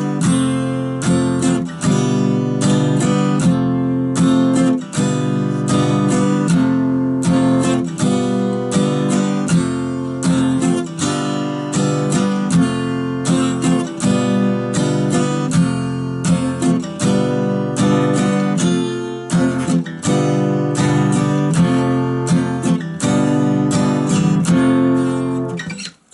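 Acoustic guitar strummed in a steady strumming pattern, changing back and forth between F and G7 chords. The playing stops at the very end.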